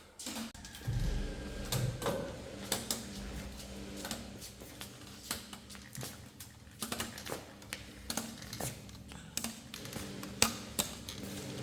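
Irregular sharp clicks and knocks, a few at a time, with a faint low rumble underneath.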